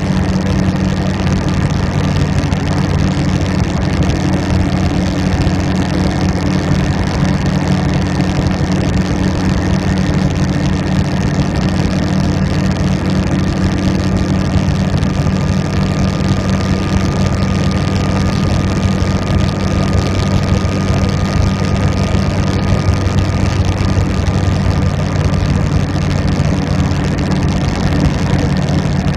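Motorcycle engine running at a steady pace with an unchanging note, over a constant rush of wind and road noise.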